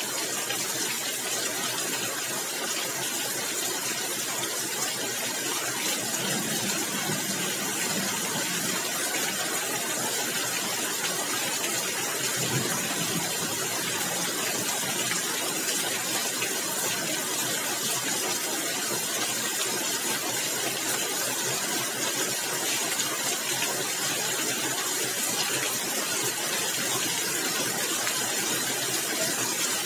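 Steady rain falling on roof tiles and the ground, an even hiss that holds at one level throughout.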